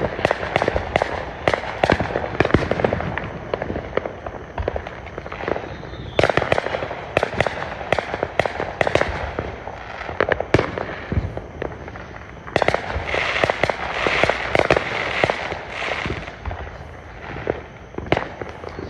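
Fireworks going off in rapid succession: a steady barrage of sharp bangs and cracks, with stretches of dense crackling from about six seconds in and again from about twelve to sixteen seconds.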